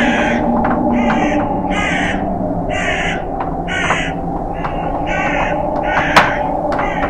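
Crows cawing over and over, harsh caws about one a second, over a steady low wind noise, with a sharp click about six seconds in.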